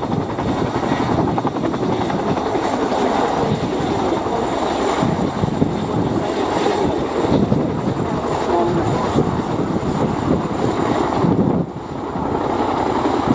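Boeing Chinook tandem-rotor helicopter in display flight: the rapid beat of its rotors with a thin steady high whine above it, dipping briefly in level near the end.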